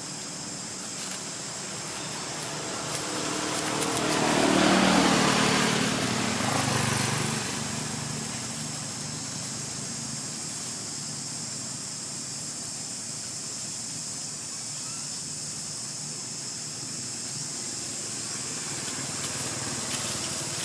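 A motor vehicle passing by, its engine noise swelling from about four seconds in and fading away by eight seconds, over a steady high drone of insects.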